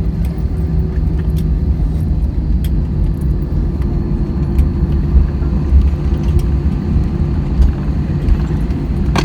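Steady low vehicle rumble with a constant hum, and a sharp click at the very end.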